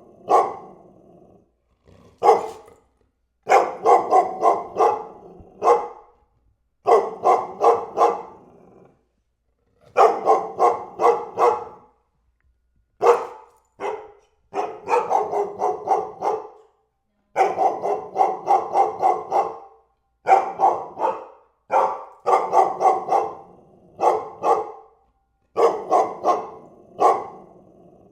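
A dog barking in repeated volleys of several quick barks, about three or four a second, with brief silent gaps between the volleys.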